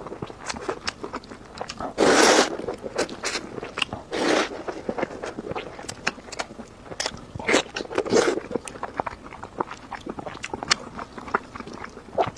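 A person eating instant noodles with pork belly close to the microphone: chewing and biting with many small clicks, broken by short loud slurps about two, four and eight seconds in.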